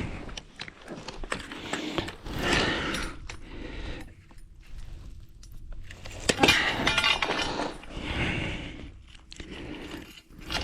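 Metal clinking and scraping from handling steel EMT conduit and tools, in a few irregular bursts with the longest, busiest one about two-thirds of the way through.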